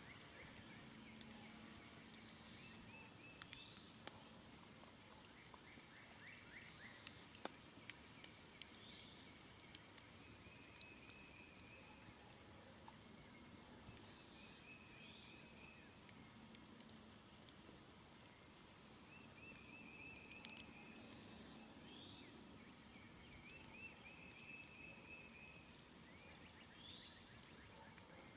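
Faint crackling of a smoldering campfire, scattered sharp pops and clicks, over repeated short trilled bird song phrases and a steady run of high, rapid chirps.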